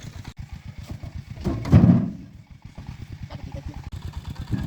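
An engine idling with a steady, rapid low putter, swelling briefly louder about two seconds in.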